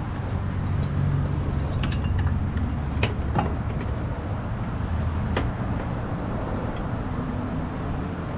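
A few scattered light metallic clinks of hand tools and parts during strut reassembly, over a steady low hum.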